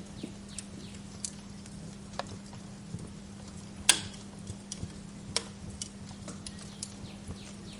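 Wood fire crackling in a fireplace: scattered sharp pops and snaps, the loudest about four seconds in, over a steady low hum.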